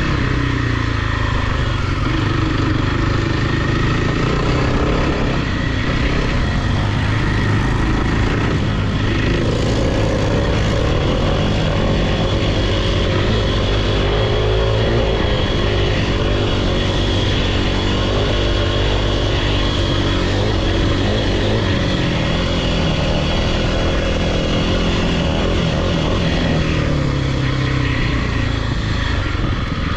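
Off-road vehicle engine running close and loud under changing throttle, its pitch rising and falling.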